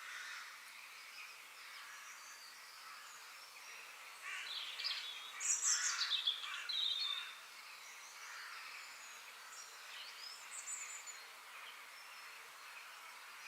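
Several songbirds singing and chirping together in the background, with one nearer bird giving a louder run of quick chirps and sweeping notes from about a third of the way in to about halfway through.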